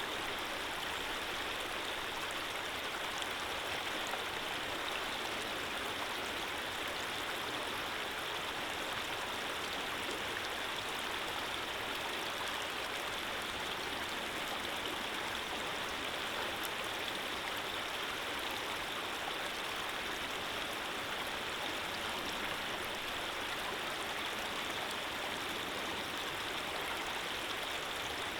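Running water flowing steadily: an even, unbroken rush with no splashes or changes.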